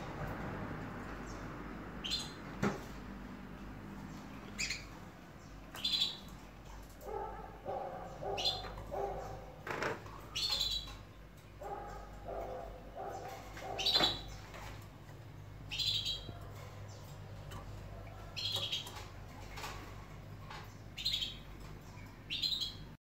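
Caged birds chirping, short high calls every second or two over a steady low background hum, cutting off abruptly near the end.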